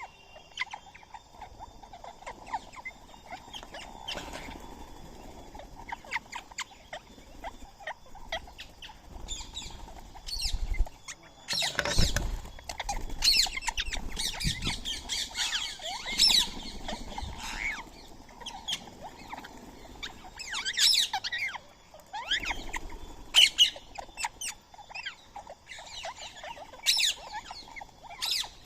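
Indian ringneck parakeets giving many short, sharp squawks and chirps, busier in the second half, with a single low thump about twelve seconds in.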